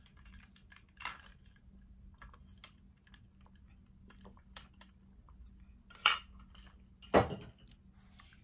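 Close-up eating of cornstarch chunks: a run of small crackling, crunching clicks as they are bitten and chewed, with three louder sharp clicks about a second in and around six and seven seconds in. A faint steady low hum lies underneath.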